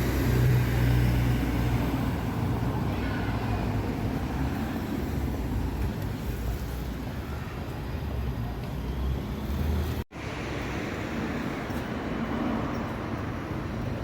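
Road traffic noise: a steady low rumble of passing vehicles, briefly cutting out about ten seconds in.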